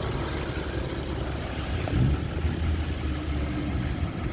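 BMW 335's turbocharged straight-six idling steadily, breathing through an aftermarket Burger Motorsports intake, with a brief swell in level about two seconds in.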